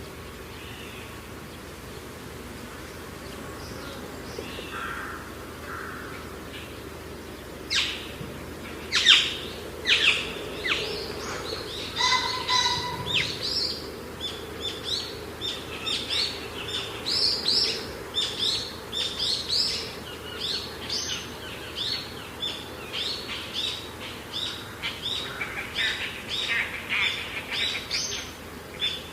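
Birds chirping and calling over a steady background hiss: a few faint notes at first, then, about a quarter of the way in, a dense stream of short, sharp chirps that keeps up to the end.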